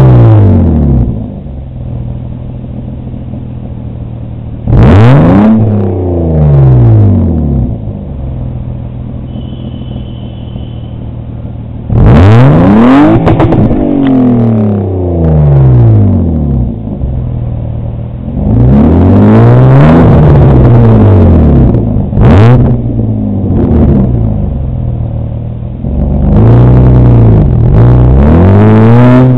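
BMW E34 540i's 4.0-litre V8 through an Eisenmann exhaust, idling and repeatedly revved up and let fall back to idle, about eight blips. Some are quick, others held for a couple of seconds.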